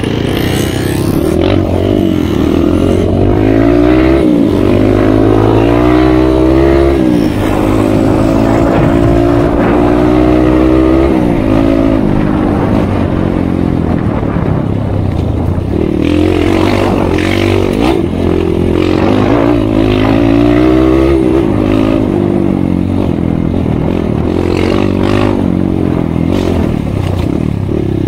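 Kawasaki KLX 150 dirt bike's single-cylinder four-stroke engine running while riding, its pitch climbing and then dropping back at each gear change, with chassis rattle over the rough ground.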